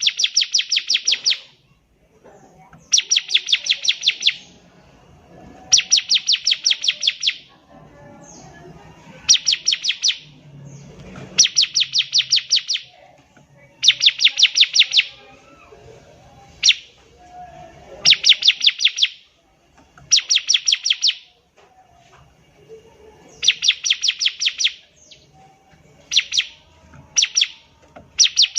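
Bar-winged prinia (ciblek) singing vigorously: loud bursts of rapid, evenly repeated high notes, each about a second long, repeating every two to three seconds.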